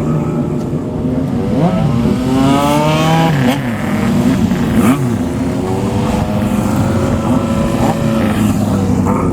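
Several motorcycle engines running at once with loud exhausts as bikes ride out. About a second and a half in, one revs up in a long rising pitch, then drops off sharply, with shorter revs after.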